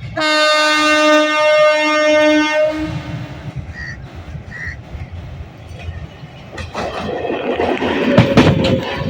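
An ICF MEMU electric train sounds one long horn blast lasting a little under three seconds. It then approaches with a rising rumble, and its wheels clatter louder and louder over the rail joints near the end.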